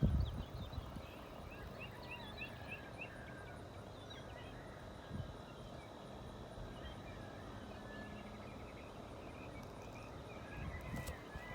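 Faint outdoor background with birds chirping, including a quick run of about six chirps a couple of seconds in, and a few dull knocks from handling.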